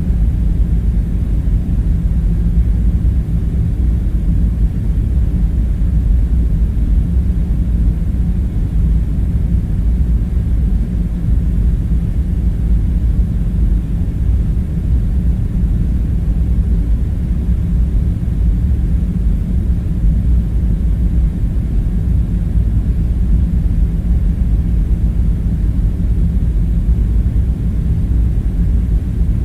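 Steady, unchanging low rumble with a faint hum in it, the background drone of an ambience soundscape.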